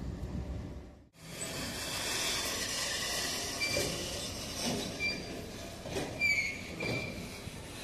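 Freight wagons rolling slowly over the rails, with steel wheels giving several short, high squeals and a few clanks over a steady hiss of wheels on track. Before that, about the first second holds a low rumble of passing diesel locomotives, which cuts off abruptly.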